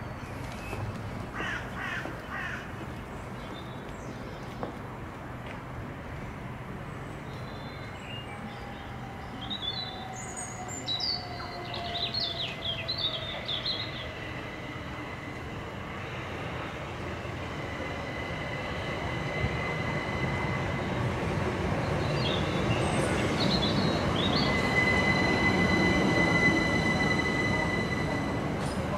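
Electric multiple-unit train running at the station, its rumble building to its loudest near the end, with a steady high-pitched whine over it and a lower tone falling in pitch in the middle.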